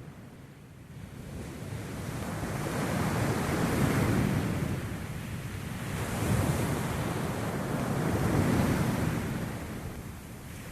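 Sea surf washing onto the shore, the rush of water swelling and easing in surges every couple of seconds.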